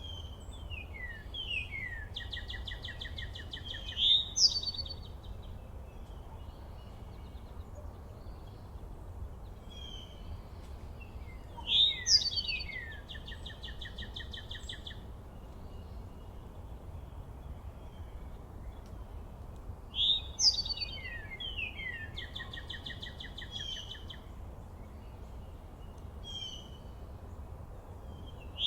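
A songbird singing the same song over and over, about every eight seconds: a few quick falling slurred notes followed by a buzzy trill, over a steady low rumble of background noise.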